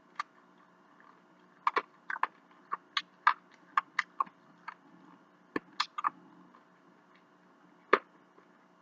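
Fingernails tapping on a phone's touchscreen: a dozen or so short, sharp clicks at an irregular pace.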